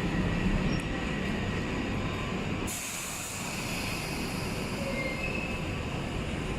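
Train running along the rails: a steady rumble with wheel and rail noise. About three seconds in it shifts abruptly to a hissier sound.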